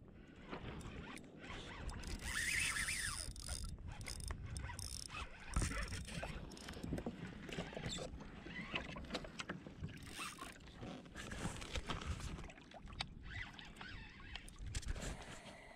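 Handling noises aboard a fishing kayak: irregular knocks, clicks and rustling against the hull and gear.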